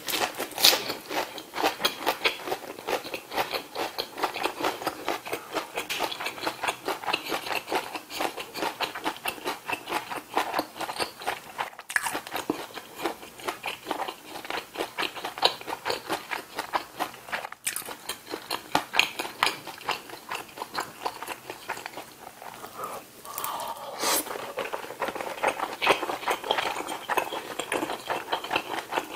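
Close-miked chewing of a mouthful of food with the mouth closed: a quick, continuous run of wet, crunchy chews, with a brief pause about three-quarters of the way through before the chewing picks up again.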